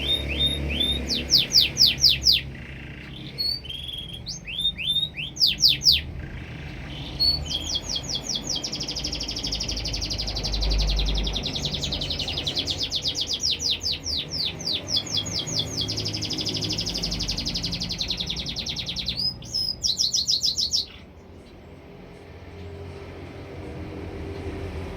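Canary singing: bursts of fast, high downswept notes separated by short pauses, then long rolling trills that break off abruptly about 21 seconds in.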